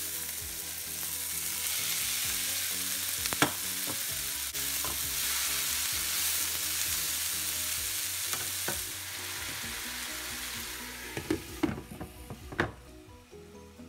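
Sliced bitter gourd (ampalaya) sizzling in a hot skillet with onion and tomato, stirred with a spatula, with a few sharp knocks against the pan. Near the end the sizzle dies down as a glass lid clatters onto the skillet.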